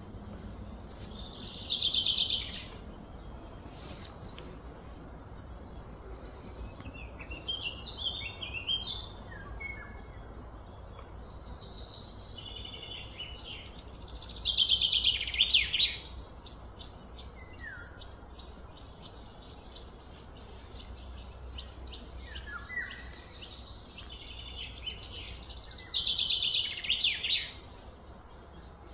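Birds singing outdoors: three loud trilled song phrases of about two seconds each, about a second in, near the middle and near the end, with softer chirps between them over a steady low background hum.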